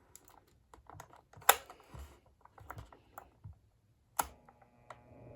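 Scattered clicks and knocks as the Duracraft DT-50 table fan is handled and switched on, with a sharp click about a second and a half in and another about four seconds in. After that second click the fan's motor starts, and a steady hum rises in level near the end as the blades spin up.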